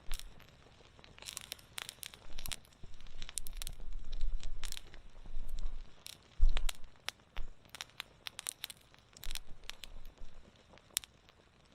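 Wood fire crackling, with irregular sharp pops and snaps, some in quick clusters. A few low rumbles come and go beneath it, the strongest about six and a half seconds in.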